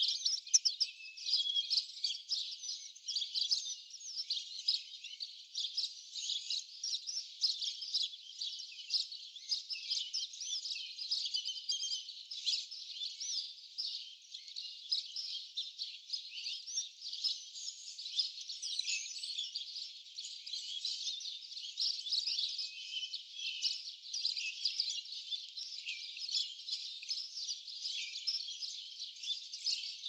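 A dense chorus of many small birds chirping at once, a steady overlapping stream of short high calls.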